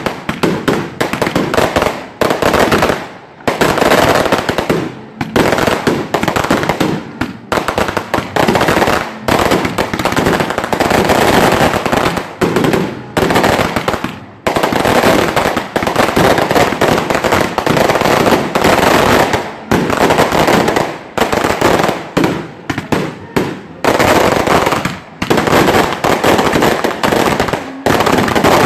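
Fireworks barrage: many aerial firecrackers bursting in quick succession, a dense, loud crackle of bangs broken by short pauses every few seconds.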